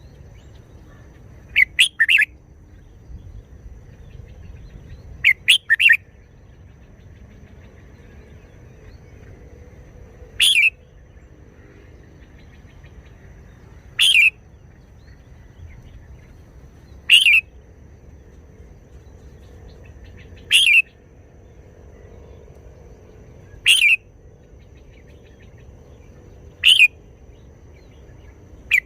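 Red-whiskered bulbul calling in short, loud bursts: two quick phrases of two or three notes in the first several seconds, then single short notes about every three seconds.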